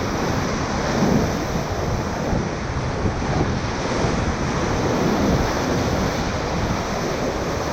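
Loud, steady rush of whitewater in a high-water river rapid, heard from a raft in the middle of it, with wind buffeting the microphone.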